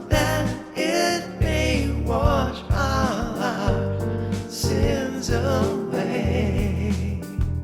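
Gospel-soul song: a wordless sung vocal line that bends and wavers in pitch, over sustained bass notes and accompaniment.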